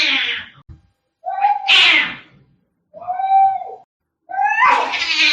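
Angry cats yowling and screeching in a fight: a string of loud, drawn-out calls about a second each with short gaps between, most harsh and hissing, one a clearer pitched yowl about three seconds in.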